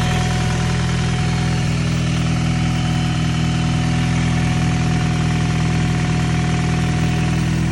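Honda F20B engine, swapped into a 1998 Honda Prelude, idling steadily, with a faint steady whine above the engine note.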